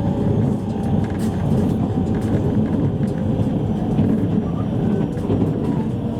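Interior running noise of a JR East E653 series electric train at speed: a steady dense rumble of wheels on the track, with faint steady tones above it.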